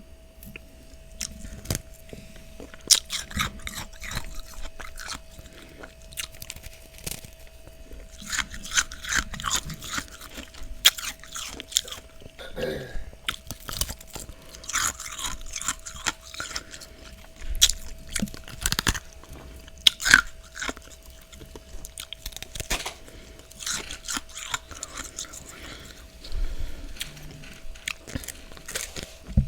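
Close-up crunching and chewing of freezer frost, in irregular clusters of crisp crunches, with a faint steady tone underneath.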